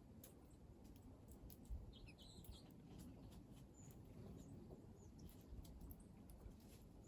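Faint short bird chirps from small wild birds: a brief cluster of calls about two seconds in, then a few single high notes, over a low background hum with scattered faint ticks.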